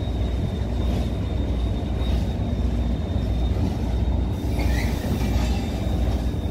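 Container train's wagons rolling slowly in reverse, a steady low rumble, with a brief wheel squeal about five seconds in.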